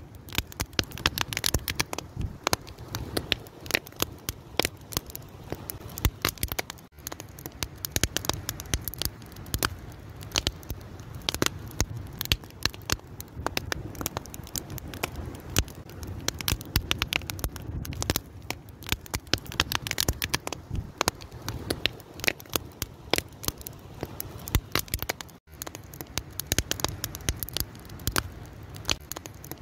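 Fire crackling with a dense, irregular stream of sharp pops and snaps over a low, steady rush of flame. The sound drops out for an instant twice.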